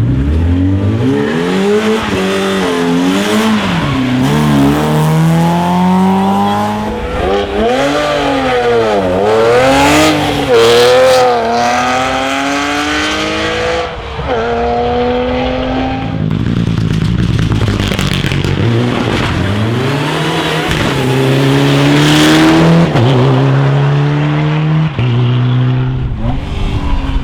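Rally cars' engines revving hard on a special stage, the pitch climbing and dropping again and again with gear changes and lifts off the throttle as cars pass.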